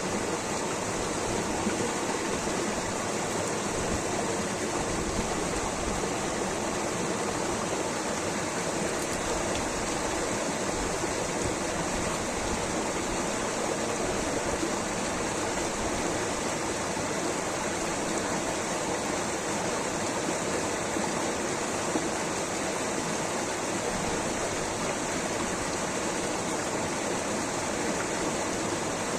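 Water rushing steadily over rocks, a continuous even roar of a stream or small waterfall.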